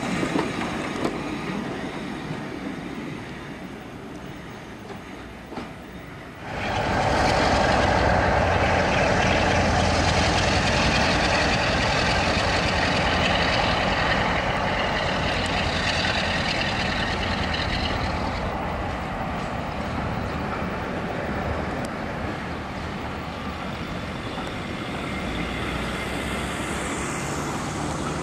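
Diesel-hauled passenger train running on the line, its coaches rumbling past and fading over the first few seconds. About six seconds in the sound cuts abruptly to a louder, steady diesel locomotive engine note that softens about twelve seconds later.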